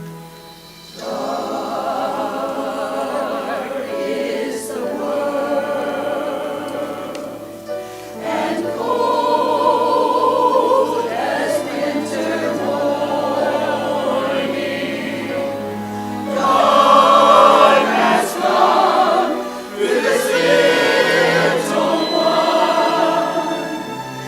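A church choir singing an anthem in several sung phrases, with short breaks between them.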